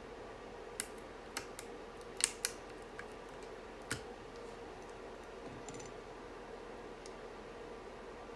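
Scattered sharp clicks of mechanical keyboard parts being handled during assembly: about seven irregular clicks in the first four seconds, then only faint ones, over a steady low hum.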